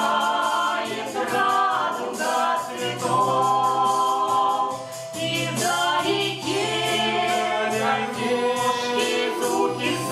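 Folk ensemble singing a song in several-part harmony over a light, steady percussive beat.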